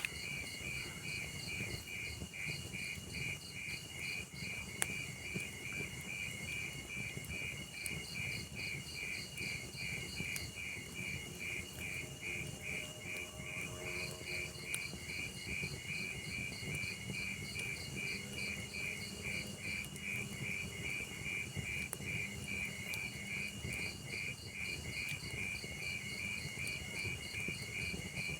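Crickets chirping steadily in an even, rapid rhythm of about two or three chirps a second, over a low fire rumble with an occasional faint crackle.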